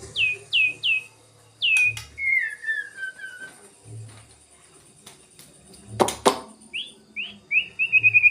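White-rumped shama (murai batu) whistling: three quick notes, each falling in pitch, another a second later, then a descending string of shorter notes. Two sharp knocks about six seconds in, then a fast run of whistled notes near the end.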